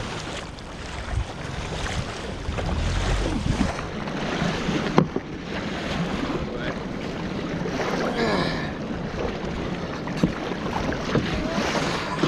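Sea water sloshing and wind buffeting the microphone, with a single sharp knock about five seconds in.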